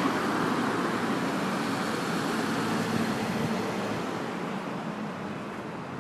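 Road traffic passing, a vehicle's engine and tyre noise loudest at first and fading away over the second half.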